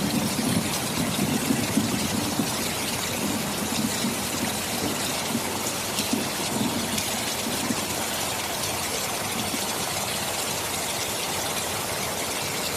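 Heavy rain falling steadily with a dense hiss, with a low rolling rumble of thunder through the first half that dies away about halfway through.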